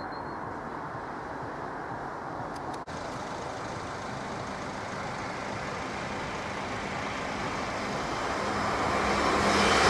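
Steady rushing rumble of an approaching passenger train on the main line, growing louder over the last few seconds as it nears; a brief click about three seconds in.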